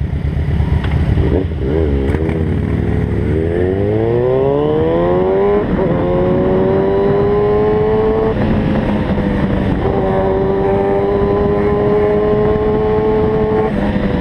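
Kawasaki ZX-6R sport bike's inline-four engine accelerating hard under the rider: the revs climb steeply a few seconds in, drop at an upshift, climb again more slowly, and after another shift hold high and steady before falling back near the end.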